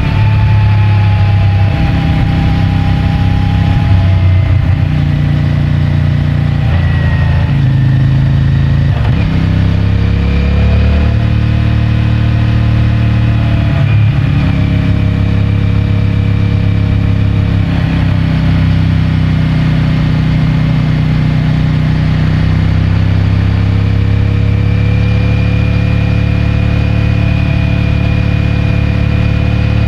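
CFMOTO 450MT's parallel-twin engine and stock exhaust running under way, heard close from the rider's pocket. The engine note steps up and down several times in the first half, then settles into a steady cruise with a slight rise near the end.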